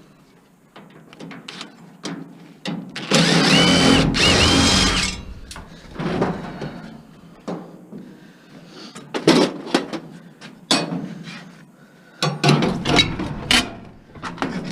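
Cordless power drill running in two short bursts of about a second each, its motor whine rising and then holding steady, followed by scattered clanks and knocks of parts being handled.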